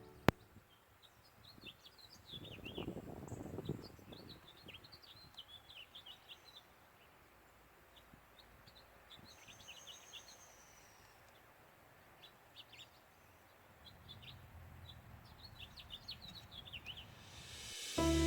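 Small birds chirping: quick series of short, high notes that come in two busy spells, one near the start and one near the end. A single sharp click just after the start is the loudest sound.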